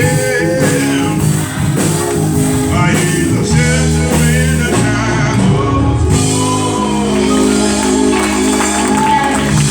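Live gospel praise music in church: voices singing over sustained, held instrumental chords, the singing thinning out in the second half while the chords carry on.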